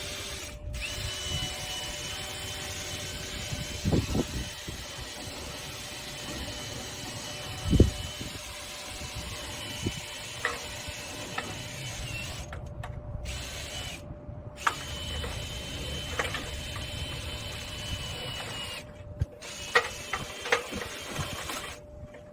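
Power drill running a dryer vent cleaning brush, a steady whine that stops and restarts several times, with two heavy thuds and a few sharp knocks.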